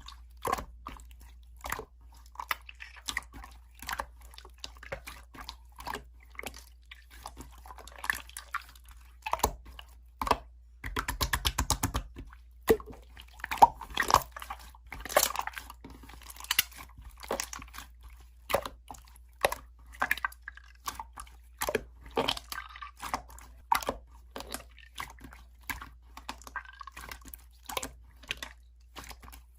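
Slime being squished and kneaded by hand, giving an irregular run of sticky pops, clicks and crackles, with a short rapid rattling patch about halfway through.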